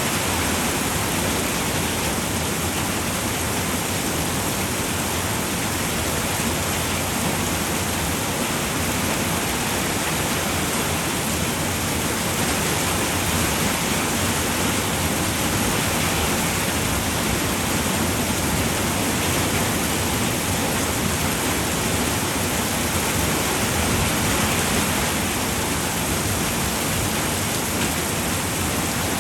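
Steady, heavy rain falling on a roof: a constant, even hiss with no single drops standing out.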